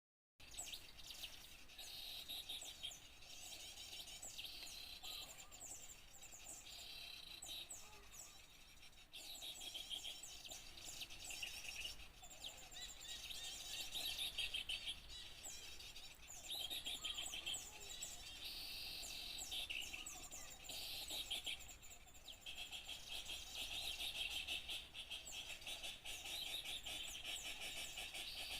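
Many small songbirds chirping and calling at once in a dense, busy chorus of quick, high twittering notes, a recording played to lure small birds. It starts abruptly just after the first moment.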